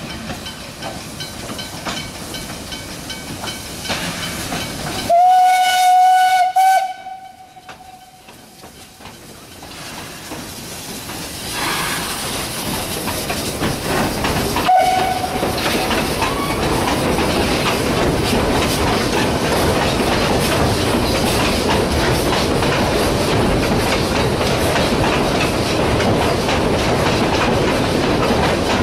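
Steam locomotive whistle: a long blast about five seconds in, then a short toot about fifteen seconds in. After the first blast there is a hiss of steam, and the train's running noise, with wheels clicking over rail joints, builds into a steady loud rumble.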